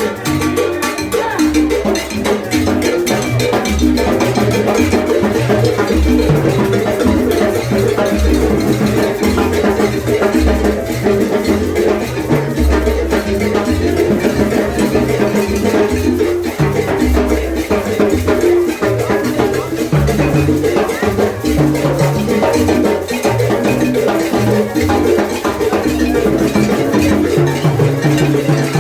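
Salsa music playing loud, with cowbell and maracas over a rhythmic bass line.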